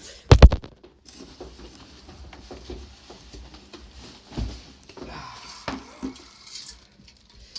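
A ceiling fan motor being wrestled out of its cardboard box: two loud knocks just after the start, then scattered rustles, scrapes and bumps, with a thud about four seconds in.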